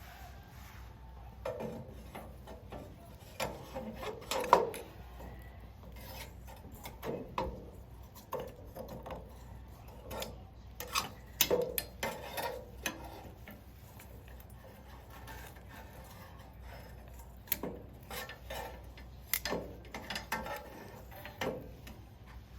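Irregular knocks, clicks and scraping of wood against metal, as sticks of firewood are handled and fed into a stainless-steel fire pit, in scattered clusters with the loudest knock about four seconds in.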